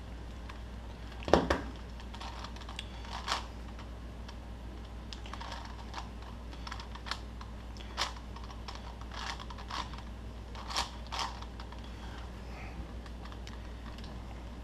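Plastic puzzle cube being turned by hand during a solve: irregular clicking and clacking of the layers, the loudest clack about a second and a half in.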